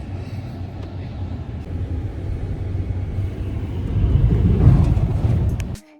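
Low rumble of a car heard from inside the cabin, engine and tyre noise, swelling louder about four seconds in and then cutting off abruptly near the end.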